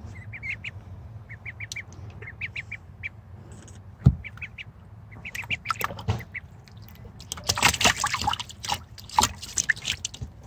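Ducklings peeping in quick runs of short, high chirps, with a sharp knock about four seconds in and a burst of splashing in bathwater near the end.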